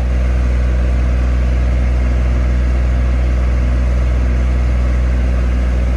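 JCB 8018 mini excavator's diesel engine running at a steady speed while the machine's tracks are driven in a travel test.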